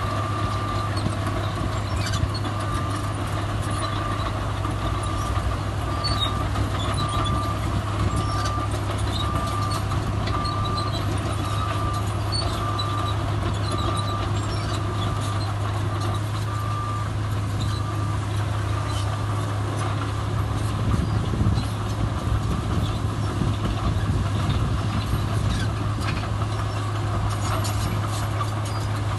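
Heavy diesel earthmoving machinery running steadily, with a reversing alarm beeping about once a second that stops about two-thirds of the way through.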